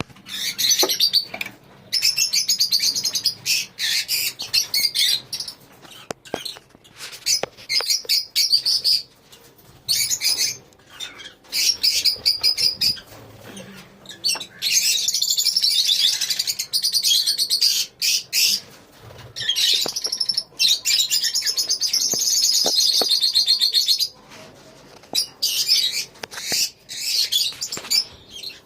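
Lovebirds in a colony chattering: shrill, rapid chirping that comes in bursts of several seconds with short pauses between, one long stretch in the middle.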